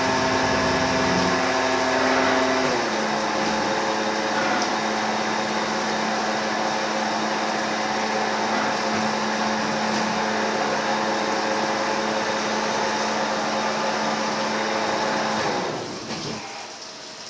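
CNC lathe running a cut, its spindle drive giving a steady whine over a hiss; about three seconds in the whine steps down in pitch as the spindle speed changes, and shortly before the end the machine winds down and becomes much quieter.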